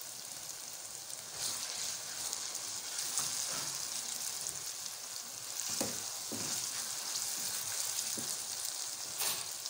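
Chicken, onions and tomatoes sizzling steadily in oil in a metal karahi, getting louder about a second and a half in as fresh green chillies go in. A wooden spatula stirs and scrapes through the mixture a few times.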